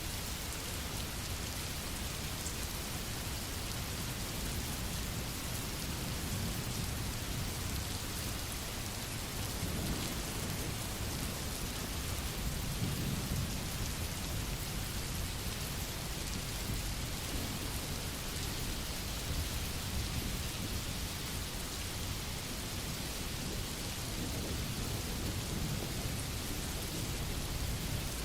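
Steady rain, with low rumbles of distant thunder swelling about ten and thirteen seconds in.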